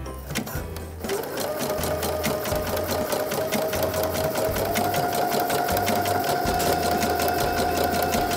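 Brother NQ470L computerized sewing machine stitching elastic onto fabric. The motor starts about a second in and runs at a steady speed with rapid, even needle strokes over a motor whine, and the whine steps slightly higher about halfway through.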